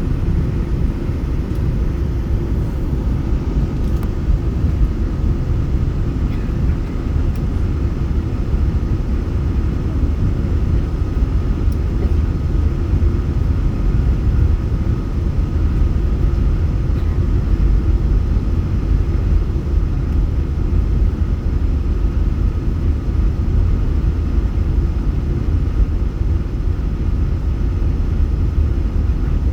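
Boeing 747-8 airliner's steady low rumble of engines and airflow, with a faint steady whine above it.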